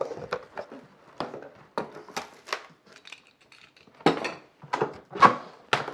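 A blade slicing the packing tape on a cardboard box, then cardboard scraping and knocking as the box is opened: a string of short, irregular scrapes and clicks, with louder knocks in the last two seconds.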